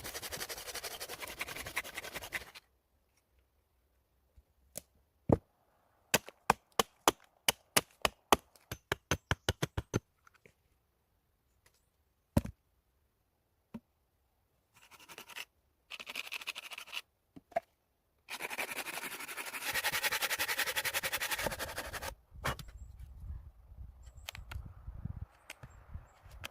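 Close-up sounds of food being prepared by hand. A stretch of scraping and rustling, then a quick run of sharp taps over about four seconds, then two more stretches of scraping and rustling.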